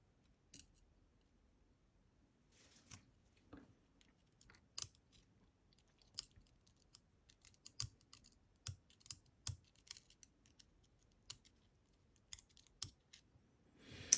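Light metal clicks and small scrapes of the discs and spacers of a DOM Diamant disk detainer lock being worked out of its tight-fitting shell. The clicks are scattered, growing more frequent from about six seconds in.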